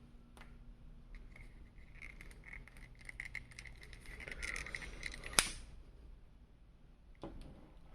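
Small plastic parts of an action figure and its packaging being handled: a run of light clicks and rattles with some crinkling, and one sharp snap about five and a half seconds in.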